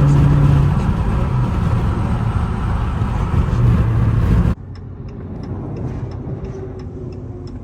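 Car driving, with loud road and engine noise and a steady low hum. About four and a half seconds in the sound cuts abruptly to a quieter in-car hum with faint, regular ticking.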